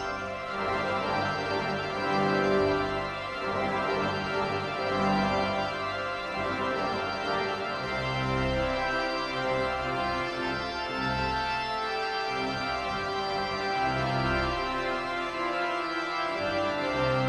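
Pipe organ playing sustained chords, with long deep bass notes entering and dropping out.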